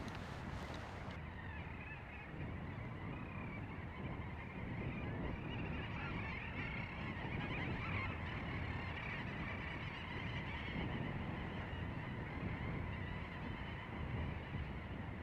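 A colony of little auks calling, many birds chattering over one another without a break, with a low rumble underneath.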